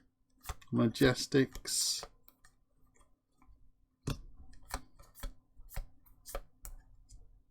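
Trading cards being handled: a run of short, sharp clicks and snaps, about two a second, as cards are flicked through and laid down.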